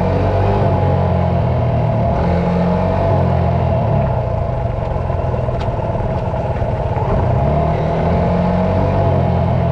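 Dirt bike engine running continuously, its pitch rising and falling several times as the throttle is worked.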